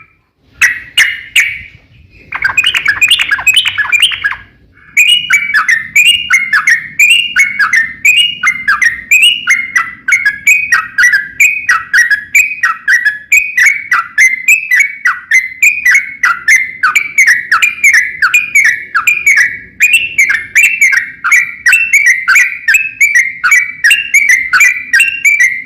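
Yellow-vented bulbul (trucukan) singing: two short bursts of song, then a long unbroken run of quick, repeated falling chirps from about five seconds in.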